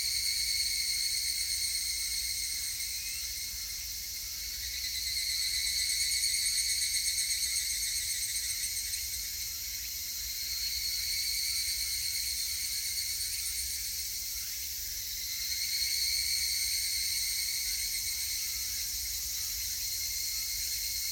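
Higurashi evening cicadas (Tanna japonensis) calling in a chorus: high, rapidly pulsing trills that swell and fade in overlapping waves about every five seconds.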